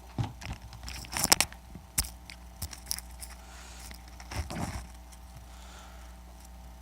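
Handling noises: a string of sharp clicks and knocks with rustling, loudest a little over a second in, dying away after about five seconds, over a steady low hum.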